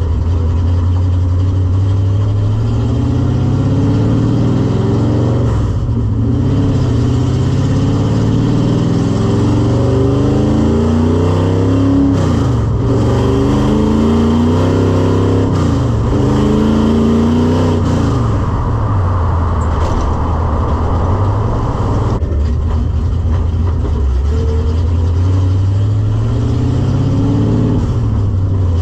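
A 1986 Mustang GT's modified 5.0 V8 running under way on a drive, its note rising and falling repeatedly as it accelerates and eases off, then holding steadier near the end.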